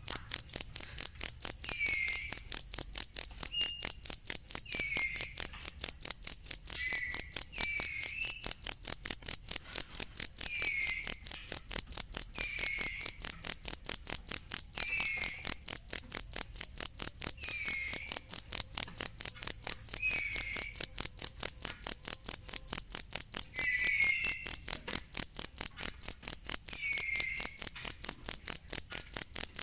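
Cricket chirping: a loud, high, steady trill chopped into fast, even pulses without a break. A fainter short falling call comes every two to three seconds.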